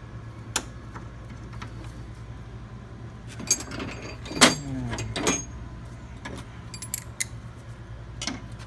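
Small metal clicks and clanks from mounting bolts and tools being handled and threaded in while a compressor is refitted. There is a louder cluster of clanks and a short falling squeak around the middle, over a steady low hum.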